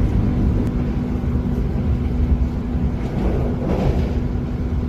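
Steady low rumble of a running vehicle, with a constant hum over it.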